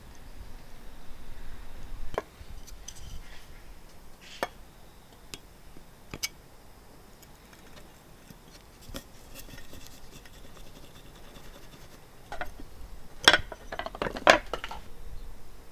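Cookware and tools being handled: a light rustle, then scattered clicks and knocks of small hard objects, with two sharper knocks near the end.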